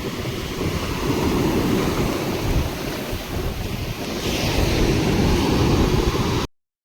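Sea waves breaking and washing up the shore, with wind buffeting the microphone; a wave wash swells about four seconds in, and the sound cuts off abruptly near the end.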